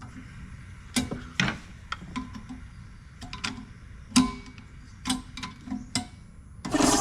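Scattered sharp clicks and knocks, then near the end a sudden loud hiss of air that keeps going: the air compressor's unloader valve venting.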